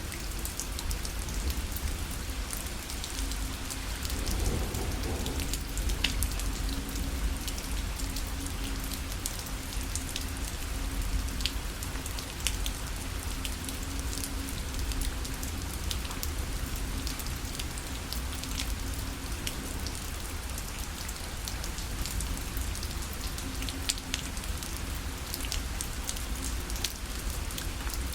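Steady rain falling on a parasol, with many individual drops ticking sharply on the canopy over a low, constant rumble.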